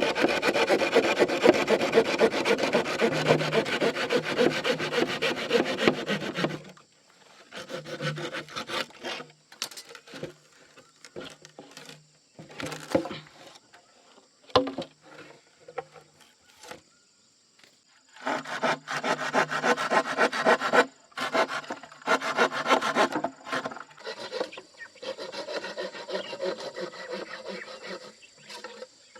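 Wood being cut with a saw in several spells of rapid rasping strokes, the longest at the start, with scattered knocks in the pauses between them.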